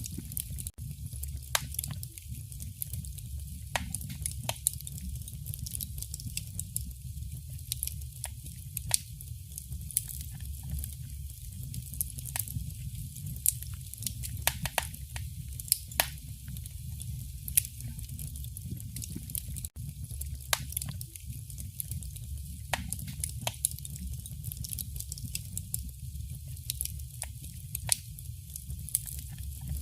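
Wood fire burning in a fireplace: a low, steady rumble of flame with irregular sharp crackles and pops, a few louder snaps among them.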